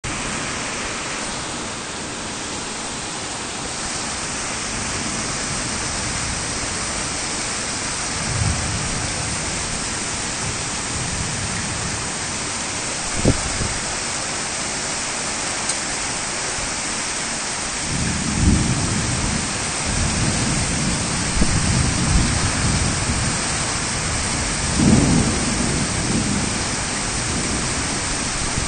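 Heavy rain falling steadily, with thunder rumbling low several times, loudest in the second half. A single short, sharp knock comes near the middle.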